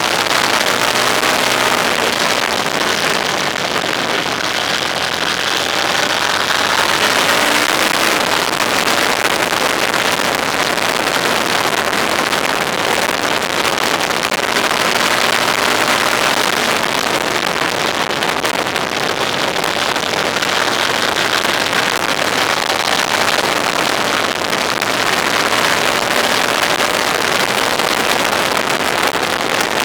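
Onboard sound of a road vehicle driving: steady wind and road noise with a fainter engine hum that rises and falls in pitch.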